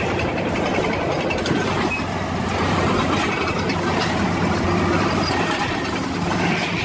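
Bulldozer engine running steadily under load, a dense, even mechanical noise.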